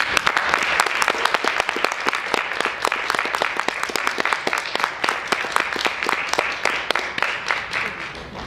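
Audience applauding. The dense clapping starts suddenly and fades out near the end.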